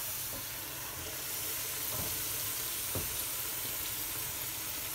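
A round of chelbek dough, just turned golden side up, frying in a pan of hot oil: a steady sizzle. Two faint knocks come about two and three seconds in.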